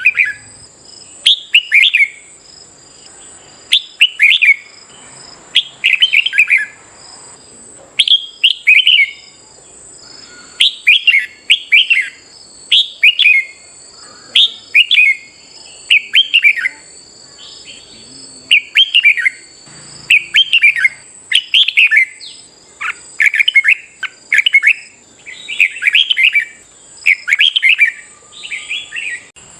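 Red-whiskered bulbul song: short, bright phrases of quick falling whistled notes, repeated every second or two, over a thin steady high-pitched whine.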